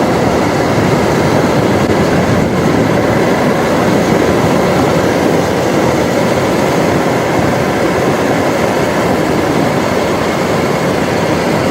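Steady road and tyre noise of a car driving at speed, heard from inside the cabin.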